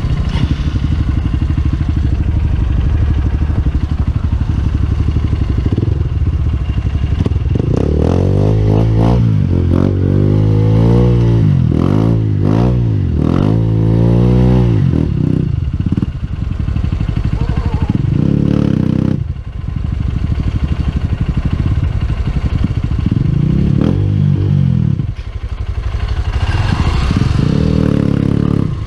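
Honda CRF150L's single-cylinder four-stroke engine running, its revs rising and falling several times over the middle of the stretch, with brief drops in revs twice later on.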